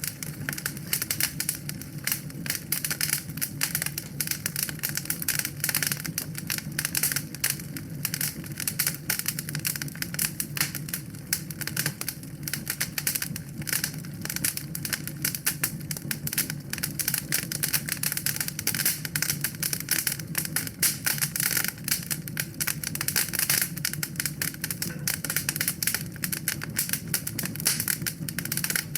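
Wood fire crackling in a fireplace: a dense, continuous run of small pops and snaps over a low steady rumble.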